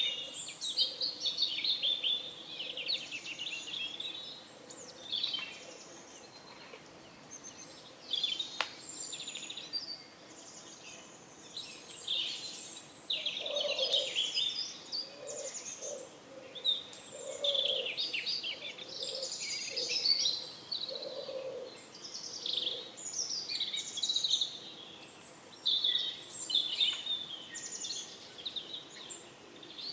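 Many small songbirds chirping and twittering without a break, with a pigeon cooing a string of low notes through the middle.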